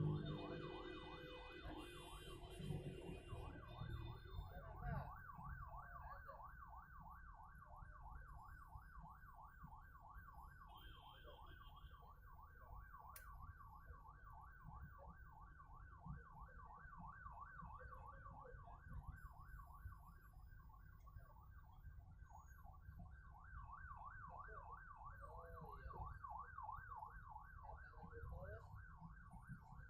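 Distant emergency-vehicle siren in a fast yelp, its pitch rising and falling several times a second, faint over a low rumble of traffic.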